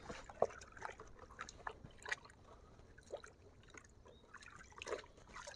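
Faint, irregular drips and small trickles of water from a toy JCB backhoe sitting in a tub of water.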